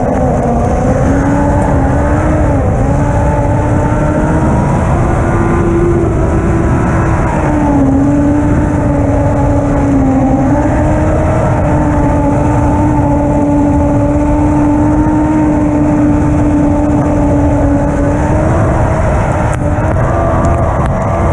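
Lightning sprint car engine running hard at high, nearly constant revs, its pitch dipping briefly a few times as it eases off, over a heavy low rumble.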